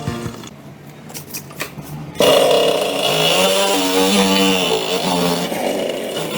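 A few light clicks, then a restored Kawasaki motorcycle engine starts abruptly about two seconds in and runs, its pitch rising and falling as it is revved.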